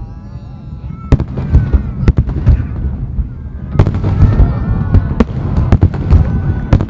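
Aerial fireworks shells bursting in quick succession: a run of sharp bangs over a continuous low rumble. It is quieter for about the first second and the bangs grow denser from about halfway.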